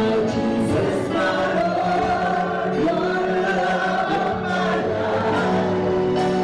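Gospel music with group singing: a choir or congregation sings a slow melody over sustained instrumental chords.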